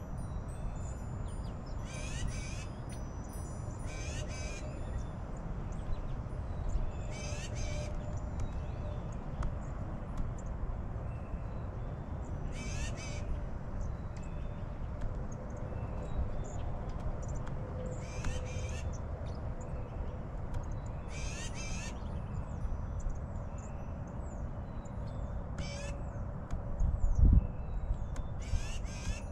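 Harsh bird calls, one short call every few seconds, over a steady low rumble, with a single thump near the end.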